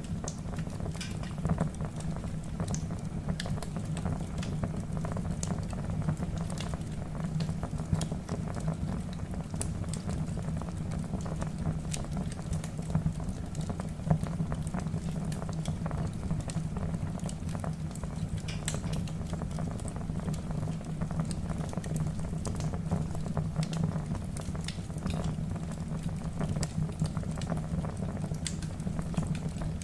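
Wood fire burning in a fireplace: a steady low rumble of flame with scattered crackles and pops from the burning logs, a few sharper pops standing out.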